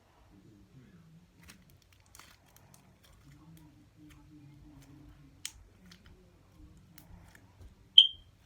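Slime being handled, with scattered soft clicks and small pops. A short, high-pitched beep-like chirp near the end is the loudest sound.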